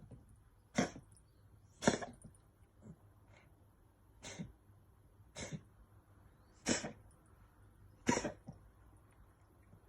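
Bengal cat coughing in a series of short, separate coughs, about six strong ones, roughly a second or more apart.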